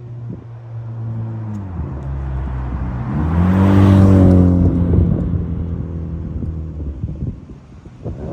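2012 Honda Civic's 1.8-litre four-cylinder engine and aftermarket exhaust driving by. The engine note dips about two seconds in, swells to its loudest around four seconds in, and fades away.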